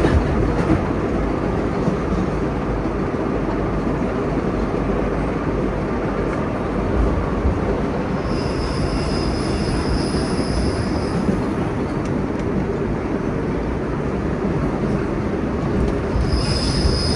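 Subway nostalgia train running on the rails, heard from inside the rear cab: a steady rumble of wheels and car body. A high-pitched wheel squeal comes in about eight seconds in and lasts about three seconds, then returns near the end.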